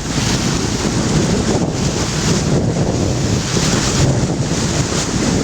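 Wind buffeting the microphone on a moving boat, a loud, uneven rushing noise.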